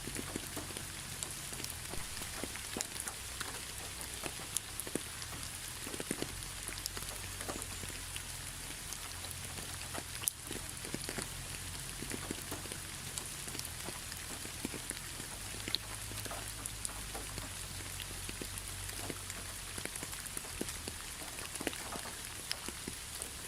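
Steady rain falling, with many separate drops ticking sharply close by and a low rumble underneath.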